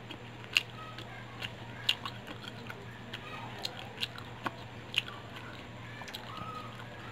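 Close-up chewing of crispy fried chicken: wet mouth sounds with sharp, irregular crunches, the clearest about every second or so, over a low steady hum.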